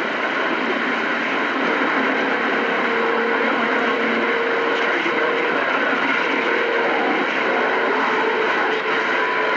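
CB radio receiving open band noise: a steady loud hiss of static with faint steady whistling tones from weak carriers in it.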